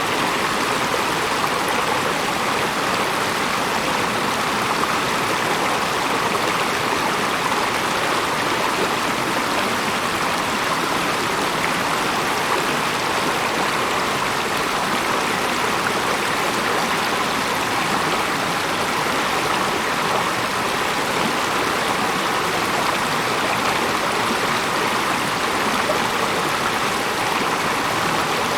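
Flowing stream water, a steady unbroken rush with no distinct splashes or breaks.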